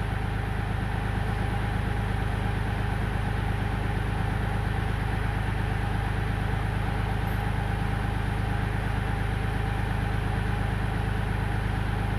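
Kioti compact tractor's diesel engine idling steadily.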